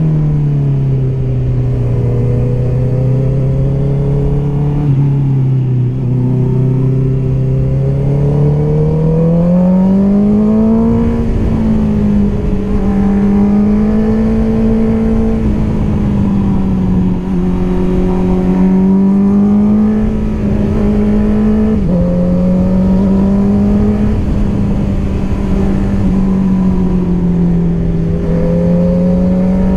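Honda CBR650R's inline-four engine through an Akrapovic exhaust, pulling under way with its note rising and falling with the throttle. Twice, about a third and two-thirds of the way through, the pitch drops suddenly as it shifts up a gear.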